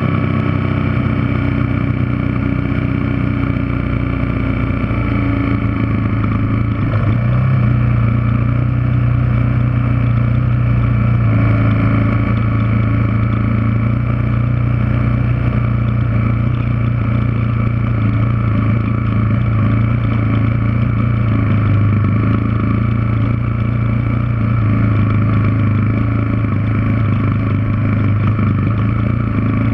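Yamaha TW200's air-cooled single-cylinder four-stroke engine running steadily under load while the bike climbs a rocky dirt trail. Its note rises a little about seven seconds in.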